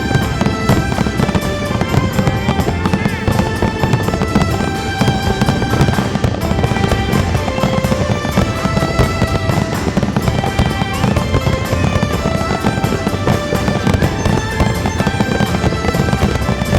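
Fireworks going off in a continuous barrage of bangs and crackling, mixed with background music.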